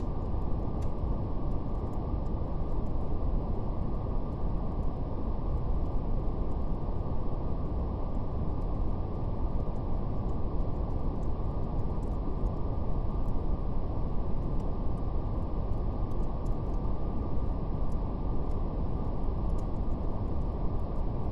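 Steady brown noise: a deep, even rush with nothing above the low range. Faint crackling clicks of a fire are scattered through it.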